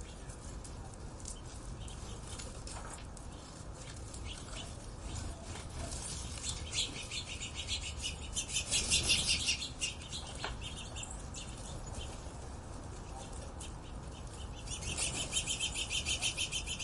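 Birds chirping, with scattered short high calls and two bursts of rapid chattering notes, one about halfway through and one near the end, over a steady low background rumble.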